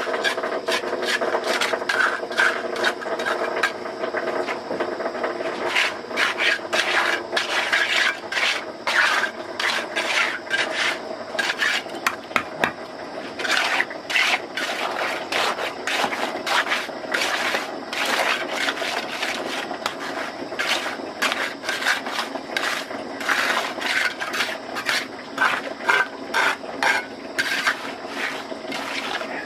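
Rapid, irregular scraping strokes, many each second, over a steady low hum.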